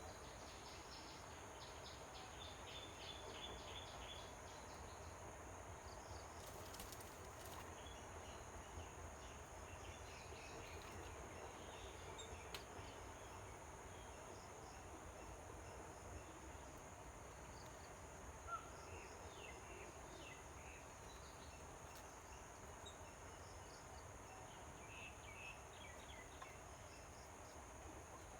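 Faint outdoor ambience: a steady high-pitched insect drone, with short faint chirps now and then and one small click just past the middle.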